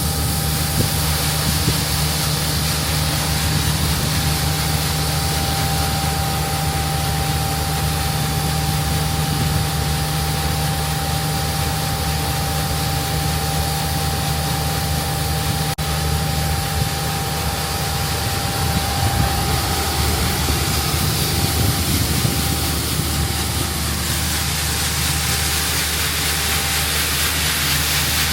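CASE Axial-Flow combine harvester running steadily at work in corn: a low engine drone with a steady whine above it and a dense hiss.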